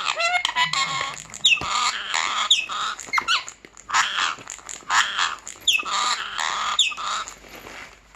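Pet parrot calling and chattering in short loud squawky bursts about a second apart, with a few sharp downward-sliding whistles, dying away near the end.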